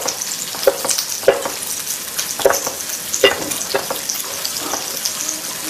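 Food sizzling steadily in a hot wok, with half a dozen sharp, irregular knocks of a cleaver chopping on a wooden cutting board.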